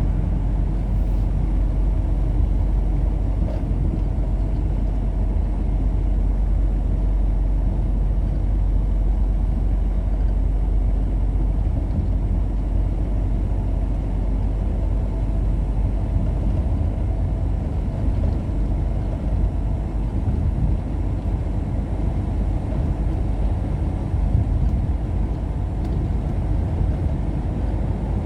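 Steady low rumble of a vehicle driving along the road.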